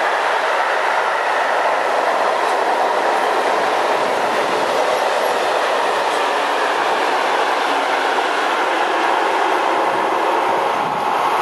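Freight train of covered goods wagons rolling past, a steady noise of steel wheels running on the rails.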